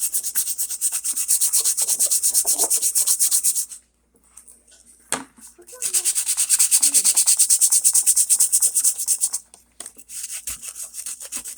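Sandpaper held by hand scraping back and forth over Bondo glazing putty filler on a model roof, in quick, even strokes. The sanding stops just before 4 s, a single sharp click comes about a second later, and the strokes start again, lighter near the end.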